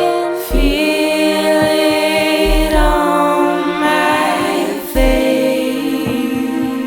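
Pop song between sung lines: long held vocal notes over chords, with a few low drum thumps.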